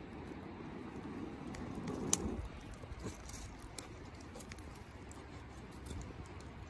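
Dry twigs being handled and broken: rustling with scattered small clicks and snaps, and one sharp snap about two seconds in.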